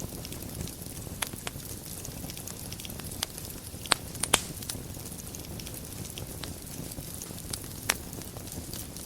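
Wood fire burning in a fireplace: a steady low rumble of flames with scattered sharp crackles and pops, the loudest a cluster of pops about four seconds in and another near the end.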